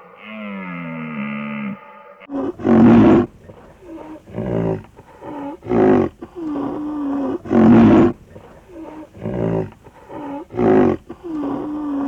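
Lion roaring in a series of loud, rough grunts about every one and a half to two seconds, with softer moaning tones between them. It is opened by a low, falling, drawn-out call in the first two seconds.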